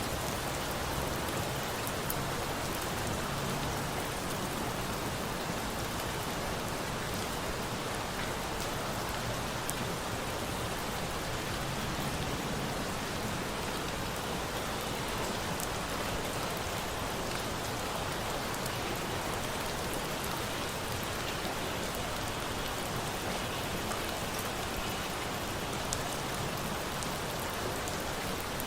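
Steady rain falling, mixed with the scattered crackle of a wood fire, as one even, unchanging masking sound.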